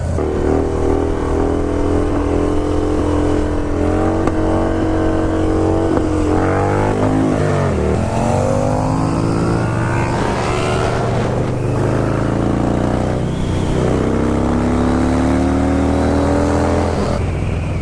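Motorcycle engines running while riding, with a steady low drone under an engine whose pitch drops and climbs again a few times as it changes gear and accelerates.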